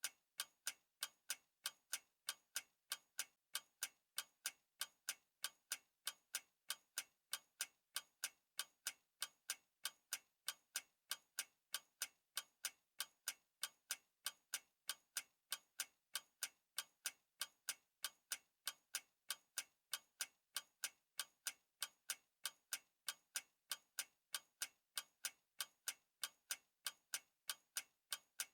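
Clock ticking, an even, unbroken run of sharp ticks, several a second.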